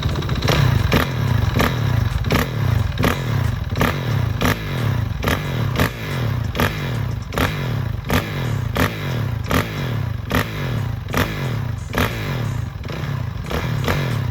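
Dirt bike engine running, with a regular clatter about three times a second.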